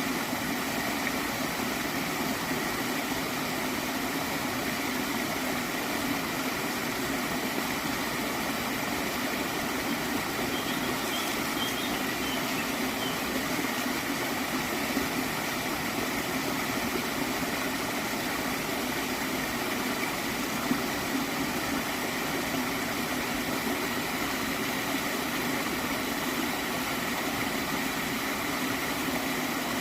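Small stream of water flowing and gurgling steadily.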